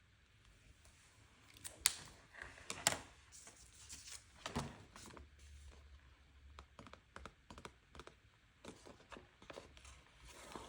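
Faint desk handling of planner supplies: paper rustling, stickers and pen caps making small clicks and taps, with two sharper clicks about two and three seconds in.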